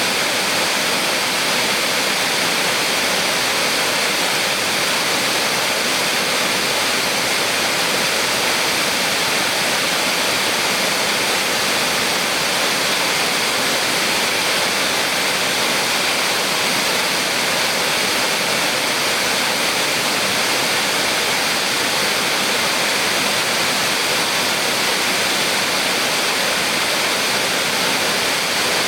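A small waterfall on a mountain stream, water pouring and splashing in a steady, even rush.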